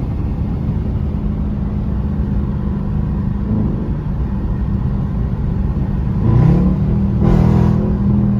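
Dodge Charger R/T's V8 engine running at highway speed, then about six seconds in revving up sharply under hard acceleration, its pitch climbing and holding high.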